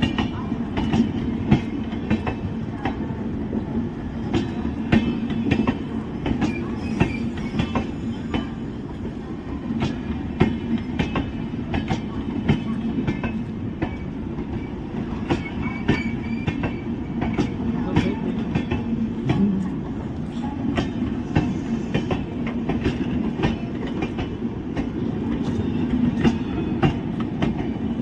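Indian Railways passenger coaches rolling past close by. There is a steady rumble of steel wheels on the rails, with irregular clicks and clanks as the wheels cross rail joints, and a few short high squeaks of the wheels.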